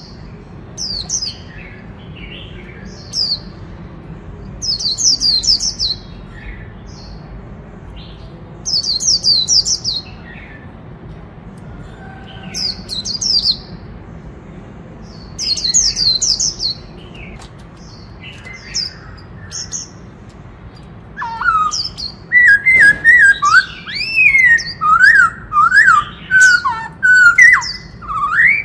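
Black-throated laughingthrush singing: groups of short, high, squeaky notes every few seconds, then from about two-thirds of the way in, loud fluted whistles sliding up and down in quick phrases.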